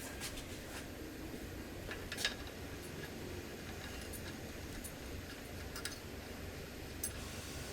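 A few light, scattered metallic clicks and clinks, the sharpest about two seconds in, over a steady low hum.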